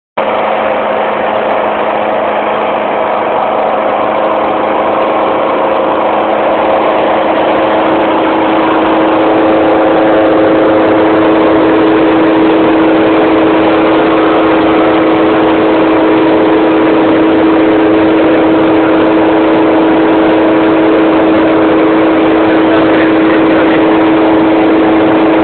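A motor running steadily with a constant hum, growing a little louder over the first ten seconds.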